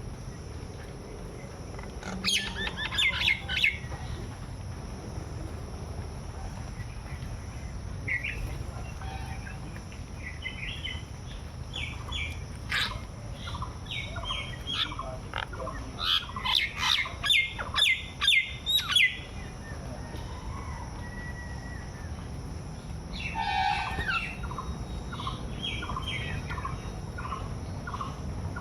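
Birds chirping and calling in short bursts, loudest in a quick run of sharp calls a little past the middle. Near the end comes a row of evenly spaced lower calls, about two a second.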